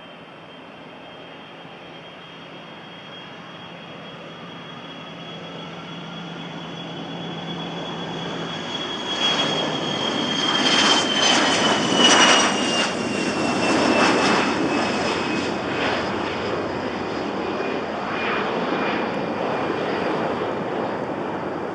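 Cessna 750 Citation X business jet taking off, its twin turbofan engines growing from faint to loud. A high whine drops in pitch as it passes, loudest about halfway through, then settles into a steady rumble.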